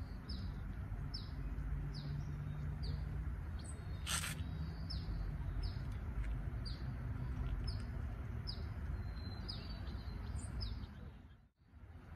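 A small bird chirping over and over, short falling chirps about once or twice a second, over a steady low background rumble. The sound cuts out briefly near the end.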